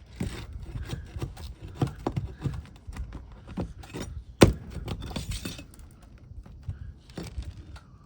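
Roofing flat bar and hatchet working a nailed asphalt shingle loose: irregular metal taps, clicks and scrapes as the nails are pried out, with one sharp, loud strike about four and a half seconds in.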